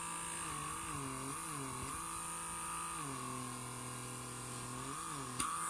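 Small electric motor of a handheld pore-vacuum suction device humming steadily. Its pitch dips several times and stays lower for about two seconds in the second half. A small click comes near the end, after which the hum is a little louder.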